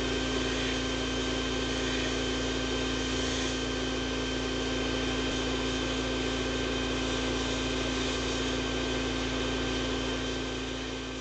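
Sandblasting cabinet blasting rust off a steel gear rack: a steady hiss of compressed air and abrasive from the blast nozzle over a steady hum. It starts to fade near the end.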